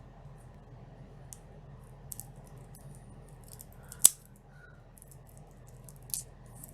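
Short rustles and clicks of a boxed trading-card deck's packaging being handled and opened, with one sharp click about four seconds in that is the loudest.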